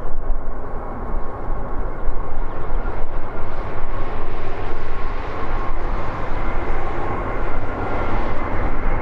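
Airbus A320's CFM56 turbofan engines on approach: a steady jet rumble with faint whining fan tones, growing louder near the end.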